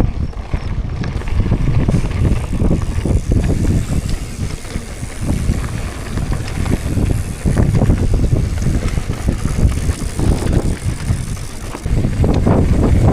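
Wind buffeting a moving camera's microphone: a loud, irregular low rumble that rises and falls in gusts.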